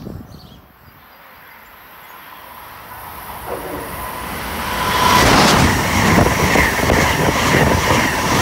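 Amtrak Acela high-speed train approaching and running through the station at speed without stopping. Its rush of wheels and air builds from fairly quiet to loud and stays loud from about five seconds in as it passes close by, with a steady high whine over the rush.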